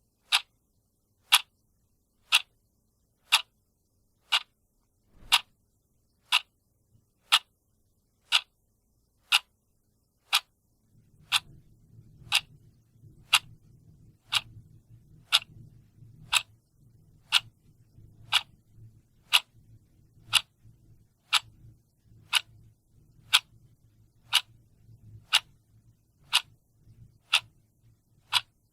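A clock ticking steadily, one sharp tick a second. About a third of the way in, a faint low hum starts up underneath the ticks.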